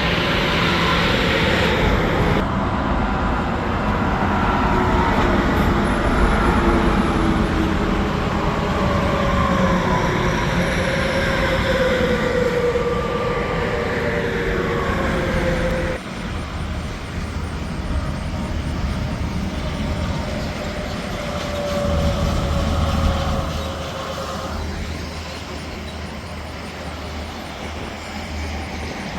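Semi trucks and other traffic passing on an interstate highway: steady engine drone and tyre noise, with a tyre whine that glides in pitch as each vehicle goes by. The level drops suddenly about halfway through, then carries on somewhat quieter.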